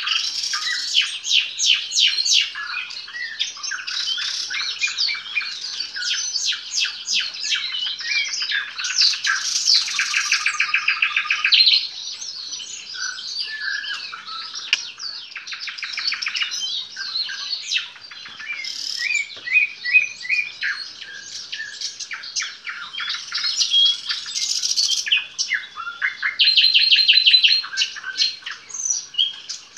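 Nightingale singing: varied phrases of rapid repeated notes, clicks and trills, with a long fast trill about ten seconds in and another near the end.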